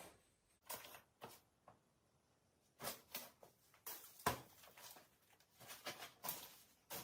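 Irregular rustling and scraping noises in short bursts, with a sharp click about four seconds in.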